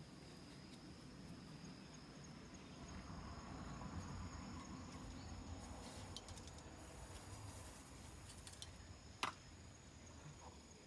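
Faint, steady high-pitched insect trill, like crickets, with a single sharp click about nine seconds in.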